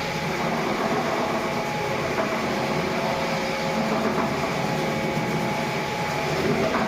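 Floor polishing machine running steadily with its pad on marble: a constant rumbling hum with a few faint steady tones over it.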